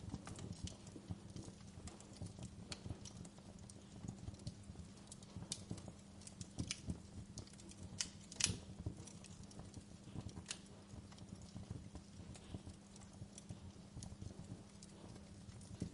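Wood fire crackling: irregular snaps and pops over a low steady rumble, with the loudest pop about eight and a half seconds in.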